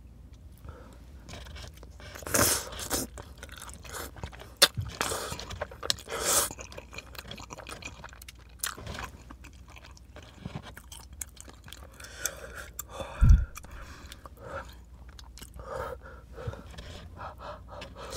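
Close-up chewing of spicy cheesy rice cakes (tteokbokki), with irregular wet mouth noises. One dull thump about thirteen seconds in is the loudest sound.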